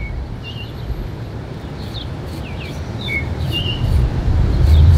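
Small birds chirping, short quick chirps and downward-sweeping notes about two a second, over a low rumble that grows louder near the end.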